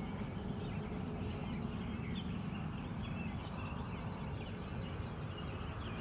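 Morning chorus of several wild birds, many short chirps and trills overlapping, over a steady high-pitched whine and a low background rumble.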